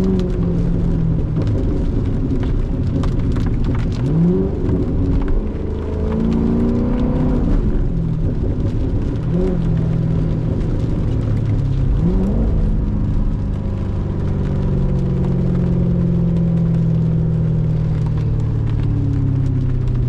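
C7 Corvette's V8 engine running on the road, rising in pitch in three short pulls, then holding a steady drone through the second half.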